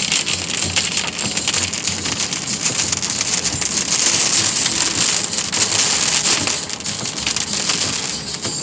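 Heavy storm rain pouring down, a steady dense hiss packed with the small ticks of drops striking a surface, swelling slightly midway.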